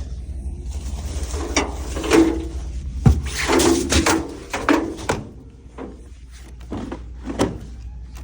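A series of knocks and clatters, about eight in all, over a low hum that fades out about five seconds in.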